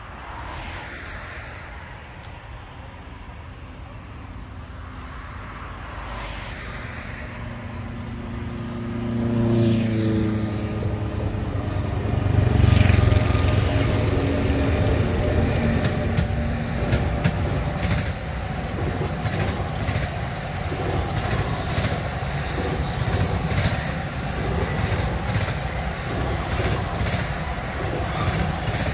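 ÖBB electric locomotive approaching and passing, hauling a rolling-highway freight train of low-floor wagons loaded with lorries. The sound grows over the first seconds, and a tone falls in pitch as the locomotive goes by about ten seconds in. A steady rumble of wagon wheels follows, with rhythmic clicks over the rail joints.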